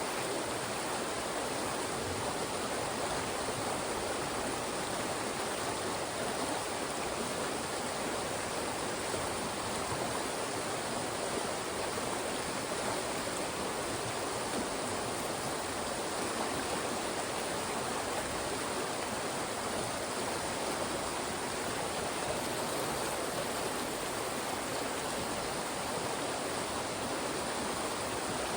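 Fast-moving mountain stream rushing steadily over and between rocks.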